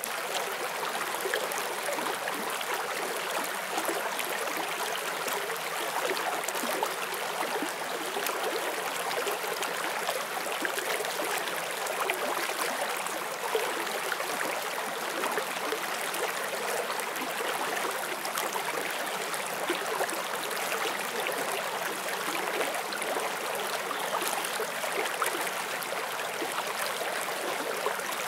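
A forest stream flowing over rocks: a steady rush of running water with fine, irregular splashing and babbling.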